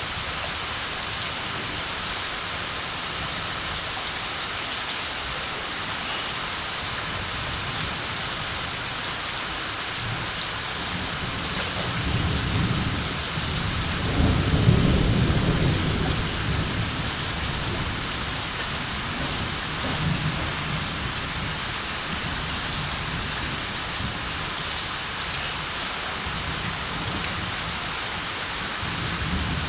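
Steady rain falling, with a low rumble of distant thunder that swells about a third of the way in, is loudest around the middle, and fades away, followed by a couple of smaller rumbles near the end.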